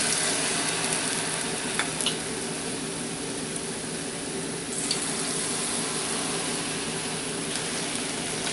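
Batter-coated mushrooms deep-frying in hot vegetable oil: a steady sizzle with a few small pops.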